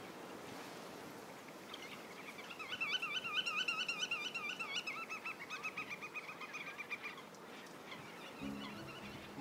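A bird's rapid trill of rippling notes, lasting about five seconds and dropping slightly lower near its end, over a steady outdoor hiss. Music comes in shortly before the end.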